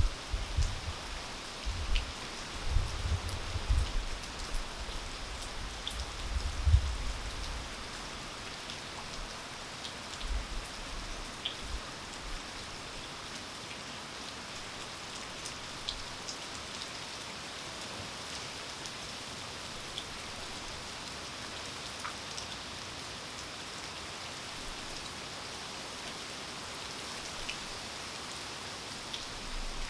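Steady rain falling, with scattered single drops ticking sharply. Loud low thumps come repeatedly during the first several seconds and again near the end.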